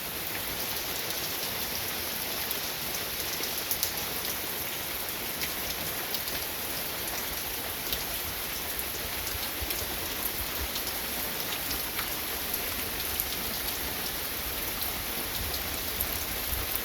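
Steady heavy rain falling, an even hiss with scattered sharper drips and patters of drops hitting surfaces.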